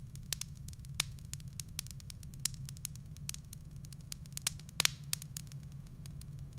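Wood fire crackling in a fireplace: irregular sharp pops and snaps over a steady low rumble, with a louder double pop a little before five seconds in.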